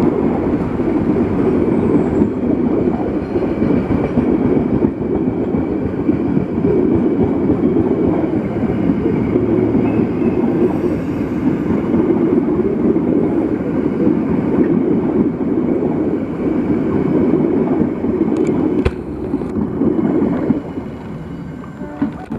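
Mild-steel economy passenger coaches rolling past close by: a steady, loud rumble of steel wheels on the rails, with a couple of sharp clicks and the rumble dropping away near the end as the last coach passes.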